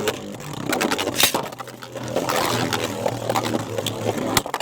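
Spinning Beyblade tops grinding and scraping against each other and the plastic stadium floor, with a steady low hum from their spin. Sharp clacks of hits come about a second in and again near the end.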